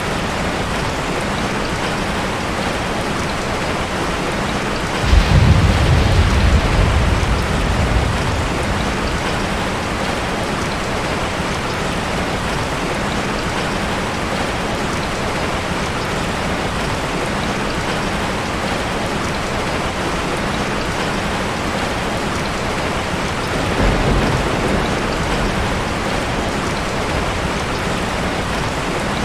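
Steady rainfall, with a sudden low rumble of thunder about five seconds in that dies away over a few seconds, and a weaker rumble near the end.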